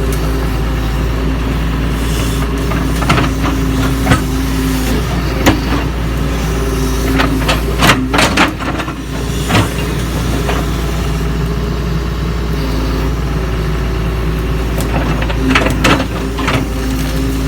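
Doosan DX140 excavator's diesel engine running steadily under working load, its note shifting now and then, with sharp knocks and clanks in three groups: a few early, a cluster in the middle and more near the end.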